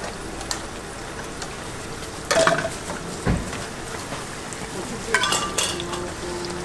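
Hotteok frying in shallow oil on a flat griddle, a steady sizzle throughout, with metal tongs clinking against the griddle a couple of seconds in and again about five seconds in.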